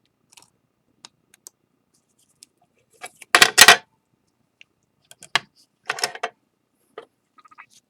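Small hard clicks and clinks of a tool against a ceramic plate while excess lacquer glue is taken off its mended seam, with a louder double clatter about three and a half seconds in and another about six seconds in.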